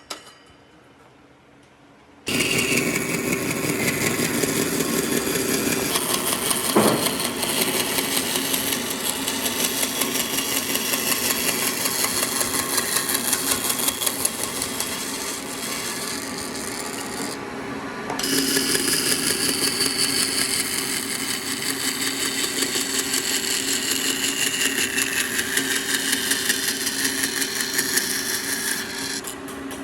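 After about two seconds of quiet, a handheld power tool starts up and runs steadily under load, working wood. It eases off briefly about two-thirds of the way through.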